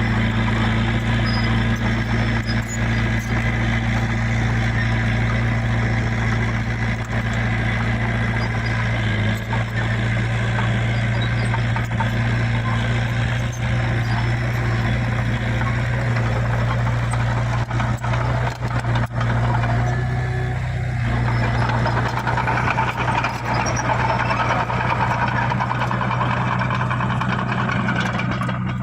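Heavy diesel machinery engine running steadily at a constant speed, its note shifting slightly about twenty seconds in.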